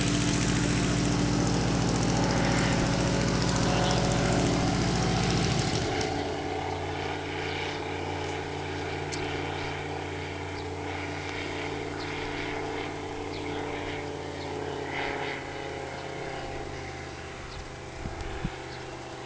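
Light propeller aircraft's engine running steadily. It is loud and close for about the first six seconds, then drops off suddenly to a quieter, thinner drone that carries on.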